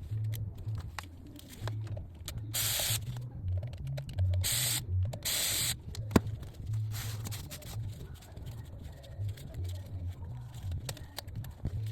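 Three short hissing blasts from a spray can, each about half a second long, with a fainter fourth one after them, as parts are sprayed clean. A low uneven throbbing and a few small clicks run underneath.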